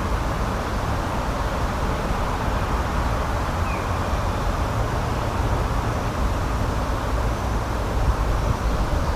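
Steady rushing outdoor nature ambience, a constant noise without rhythm or pitch, with one faint short chirp a little before the middle.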